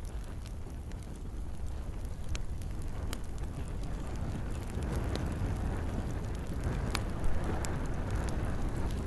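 Campfire burning in rain: a steady low rumble of flames under a soft hiss of rain, with a few sharp pops from the wood scattered through it and one louder thump near the end.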